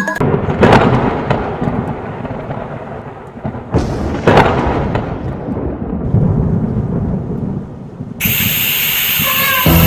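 Thunder-like rumbling with two loud cracks, the first under a second in and the second about four seconds in. Near the end it gives way to a bright, high, steady shimmering tone.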